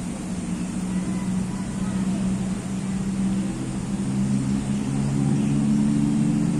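A motor vehicle's engine, a steady low hum growing steadily louder as it comes closer.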